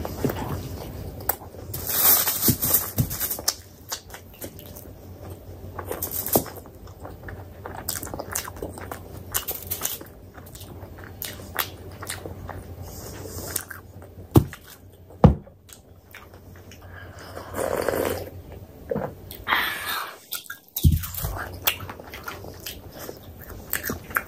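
A person eating paratha close to the microphone: chewing and biting, with many scattered sharp mouth clicks and short noisy bursts.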